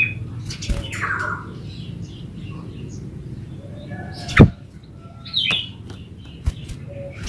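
Yellow-vented bulbul giving short, harsh chattering calls, about a second in and again around five and a half seconds. A sharp knock a little after four seconds is the loudest sound, with a few fainter clicks around it.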